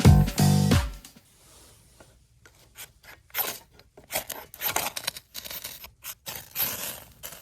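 Background music ending about a second in, followed by irregular short scrapes, rubs and clicks of something being handled.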